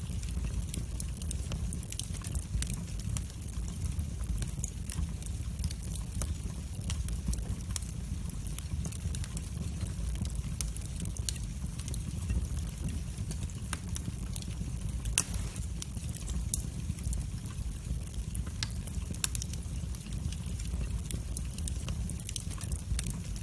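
Wood fire burning in a fireplace: a steady low rumble of the flames with irregular sharp crackles and pops, one louder pop about fifteen seconds in.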